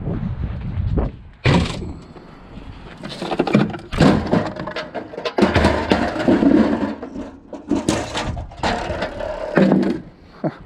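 A discarded metal sink being picked up and handled: a run of separate knocks, clanks and scrapes, with several loud hits about four, six and eight seconds in.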